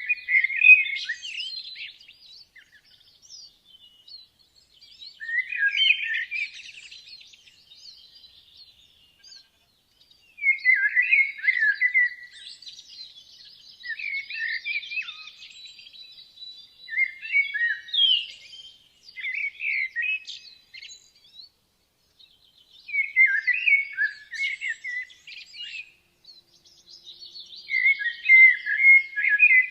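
Woodland songbirds singing. One bird sings short, loud phrases of a second or two, repeated every few seconds, over fainter, continuous chirping from other birds.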